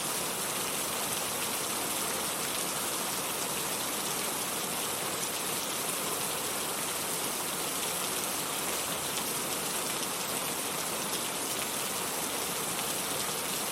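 Steady rain falling, an even hiss made of many small drops striking a surface.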